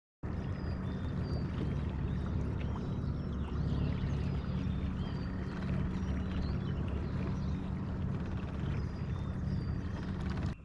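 Small fishing boat under way on the water: a steady low motor hum with rushing water noise, and faint short high chirps scattered over it. It starts and stops abruptly.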